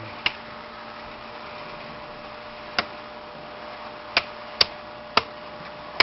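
HO-scale model trains running on the layout track: a steady motor hum with about six sharp, unevenly spaced clicks, typical of wheels passing over rail joints.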